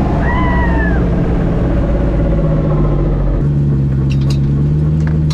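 Car engine running steadily and loudly, with a brief arching high-pitched tone about half a second in; the engine note changes abruptly about three and a half seconds in.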